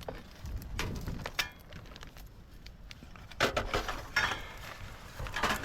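Scattered knocks and clinks of junk being handled in a curbside pile, a few short sharp hits spread unevenly, the busiest stretch a little past halfway.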